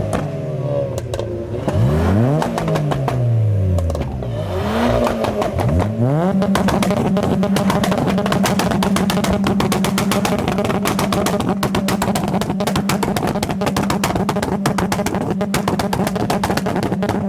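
Modified car engine revved hard several times, the pitch swinging up and down. About six seconds in it is held at a steady high rpm for the rest of the time, with rapid crackling from the exhaust.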